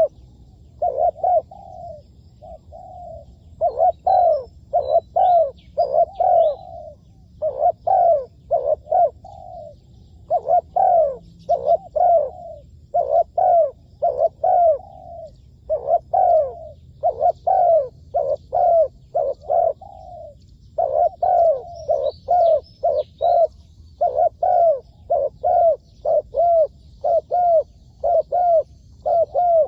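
Spotted dove cooing over and over in short, quick groups of coos, as used for decoy-trapping of the species. Faint high chirps of small birds come in twice.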